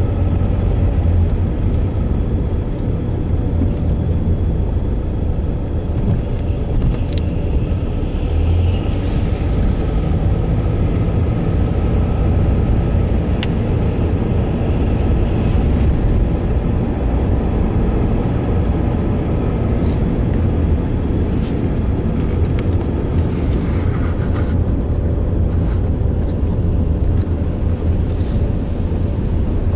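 A car driving at a steady pace: a constant low rumble of engine and road noise, with a faint steady hum over it.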